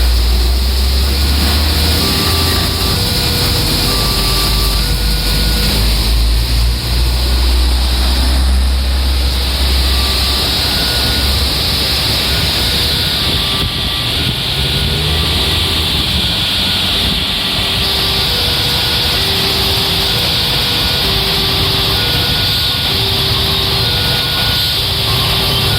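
Heavy rain hissing steadily as a diesel-hauled passenger train passes; the locomotive's low engine rumble is strong for about the first ten seconds, then fades. Throughout, an electronic two-tone alarm alternates roughly once a second, typical of a level-crossing warning signal.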